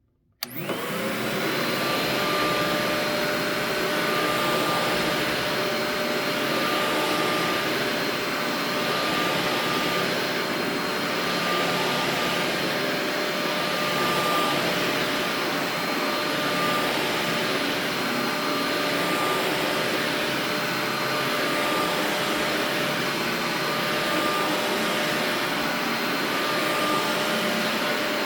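Karcher CV 300 commercial upright vacuum switched on about half a second in, its motor spinning up quickly and then running steadily with a constant whine.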